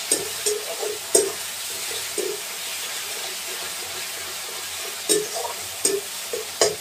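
Prawns frying in hot oil in a metal wok, a steady sizzle, with a metal spatula stirring and knocking against the pan several times, most often near the end.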